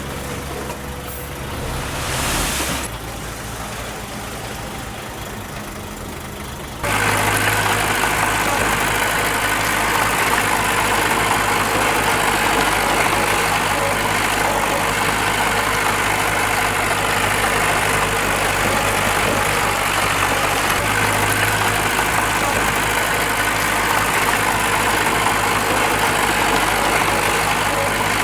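Diesel engine of heavy earthmoving machinery running steadily. About seven seconds in the sound jumps abruptly louder to a closer engine with a steady low hum.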